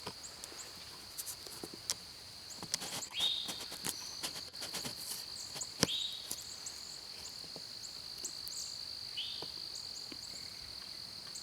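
Insects trilling, a steady high-pitched drone throughout, with a scattering of sharp clicks in the first half and three short falling chirps.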